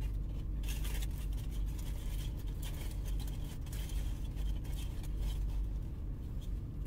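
Mouth-close chewing and crunching of tortilla chips, a scatter of short crisp clicks, over the steady low hum of an idling car engine.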